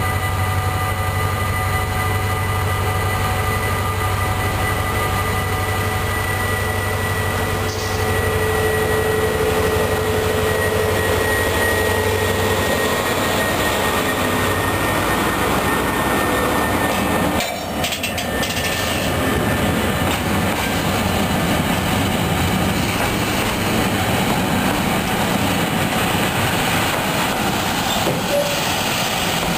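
A Vossloh G2000 diesel-hydraulic locomotive approaches and passes with a steady engine drone and a whine that rises in pitch. It gives way to the loud rolling noise and wheel clatter of container wagons going by.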